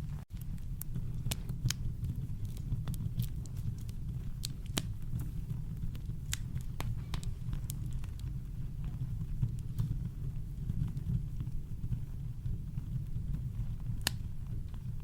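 Campfire crackling: scattered sharp pops and snaps over a steady deep rumble of brown noise, with one louder pop near the end. The sound briefly drops out just after it begins.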